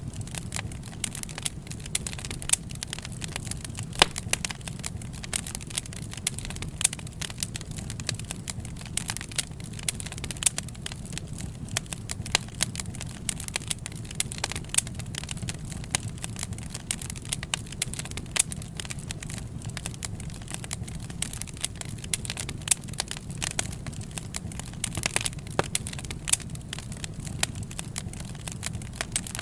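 A wood fire crackling: many irregular sharp pops and snaps over a steady low rumble of burning.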